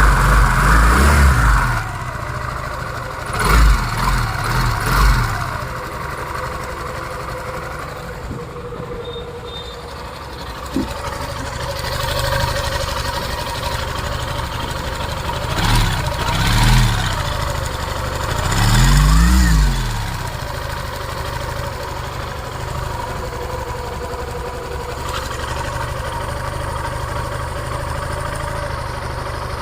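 Suzuki Gixxer SF's single-cylinder fuel-injected engine idling on a test run after being rebuilt, with the throttle blipped: a few quick revs a few seconds in, two more about halfway, and one longer rev shortly after.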